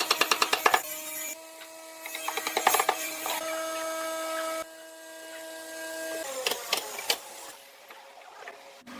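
A woodworking power tool's electric motor running with a steady whine, with stretches of rapid ticking about ten a second early on and again around three seconds in. The whine stops about halfway through, followed by a few separate knocks.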